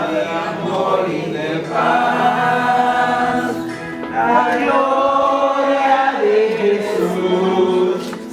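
A group of voices singing together in a choir-like chant, with short breaks between phrases about four seconds in and again near the end.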